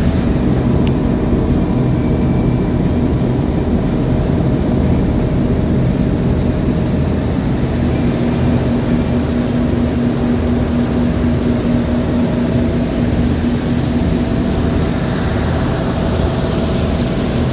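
Boat engine running steadily under way, a constant drone with a low hum that grows stronger about halfway through.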